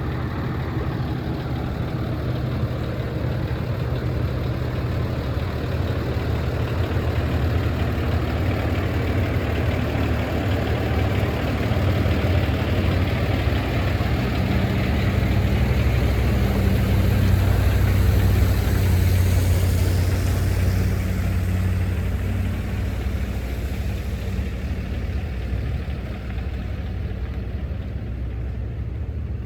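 PACCAR PX-7 6.7-litre diesel engine of a Peterbilt 337 truck running steadily at idle. It grows somewhat louder about halfway through and eases off again near the end.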